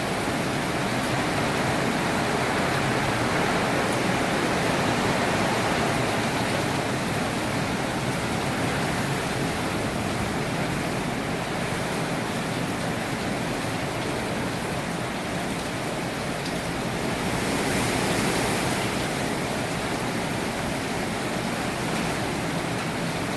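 Hurricane wind and rain, a steady loud rushing that swells in a gust about eighteen seconds in.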